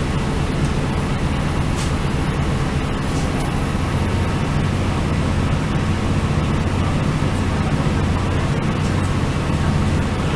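Cabin noise aboard a moving Northern Ireland Railways diesel multiple unit: a steady low drone from the underfloor diesel engine over continuous rumble of the wheels on the rails, with a faint high whine.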